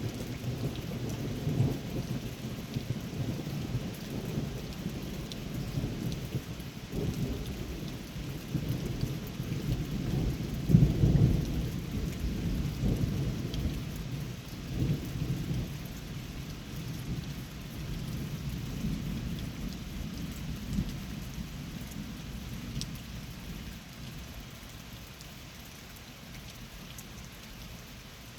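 Long rolling thunder rumbling through steady rain, swelling to its loudest about a third of the way in and then slowly dying away, leaving rain falling near the end.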